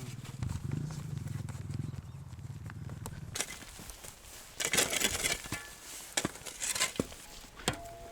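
Dirt bike engine running low and steady for about three seconds, then several short loud rushes of noise.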